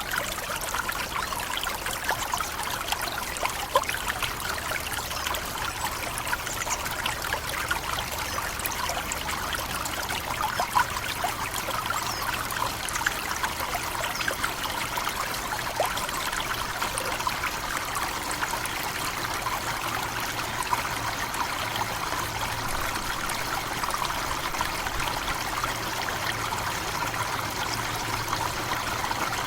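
Forest waterfall: water falling and splashing steadily, with many small droplet splashes.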